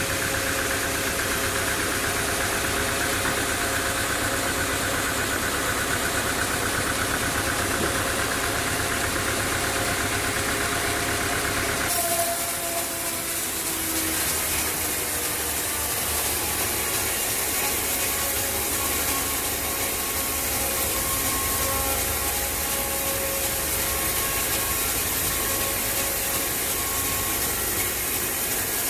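Sawmill machinery running steadily, with the drone of its engine. About twelve seconds in the sound changes abruptly.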